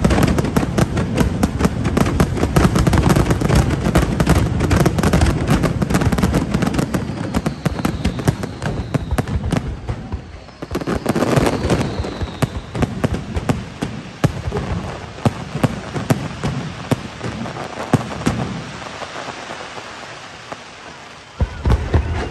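Fireworks finale: a dense barrage of rapid crackling bangs and low booms, easing off about halfway, then a fresh burst with faint falling whistles, thinning to scattered crackles, with two loud booms near the end.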